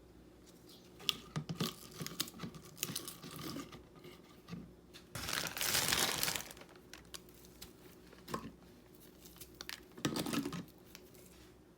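Crinkling and rustling of something being handled, like plastic wrap or packaging being pulled and torn, with scattered clicks and knocks. A louder rush of rustling lasts about a second and a half in the middle, and a shorter one comes near the end.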